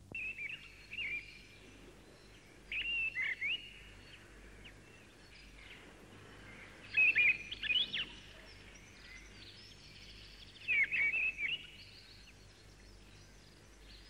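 Birdsong: four short phrases of quick, high chirps a few seconds apart, over a faint steady low hum.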